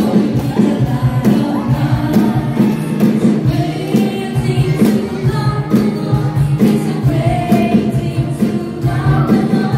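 Group of voices singing a Christian worship song over backing music with a steady beat.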